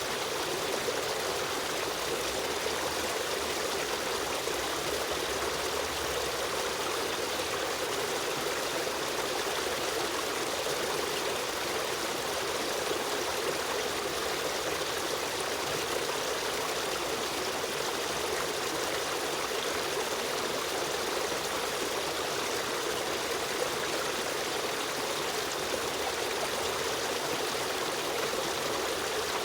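Running water of a river stream: a steady, even rush with trickling, unchanging throughout.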